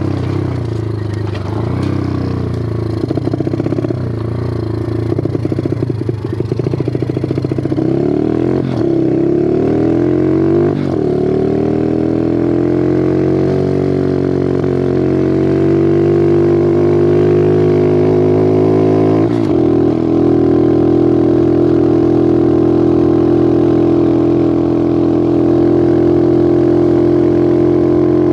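Bigfoot 125 four-stroke pit bike engine pulling through the gears. The pitch climbs, then drops briefly at each of three shifts, and holds fairly steady over the last several seconds.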